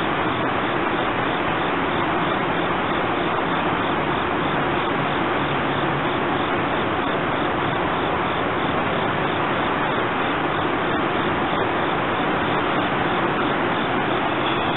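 Steady whooshing hum of a standing electric commuter train idling at the platform, its blowers and coach air-conditioning running, with a faint low drone underneath.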